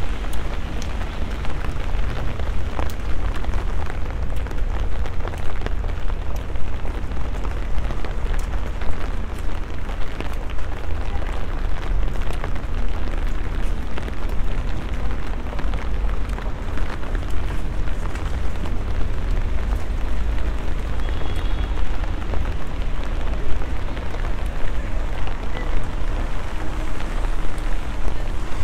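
Rain falling on an umbrella held overhead: a dense scatter of small drop ticks over a steady wash of rain noise, with a constant low rumble underneath.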